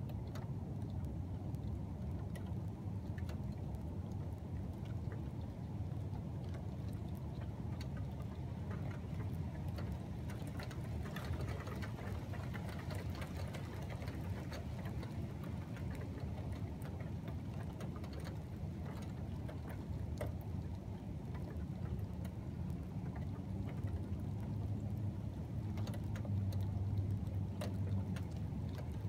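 Steady low rumble of storm wind on the microphone, with scattered light ticks of rain; the rumble swells a little near the end.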